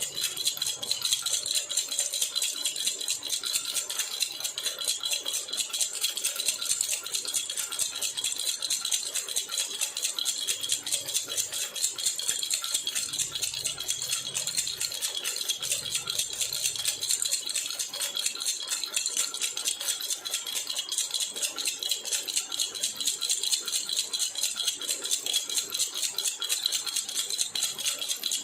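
A jhunjhuna baby rattle shaken steadily and rapidly, its pieces jingling in a continuous fast, high-pitched rattle with no pauses.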